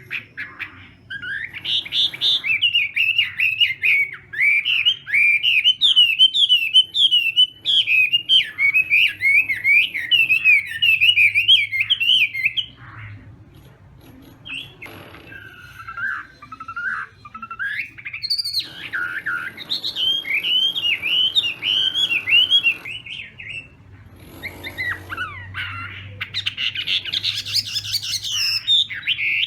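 Chinese hwamei (hoạ mi) singing loud, rapid, varied warbling phrases in long runs, broken by short pauses twice.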